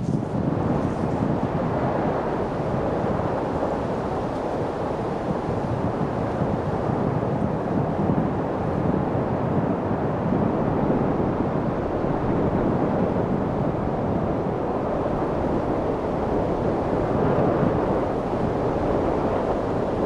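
Steady wind, a continuous rushing hiss that swells and eases slightly without pause.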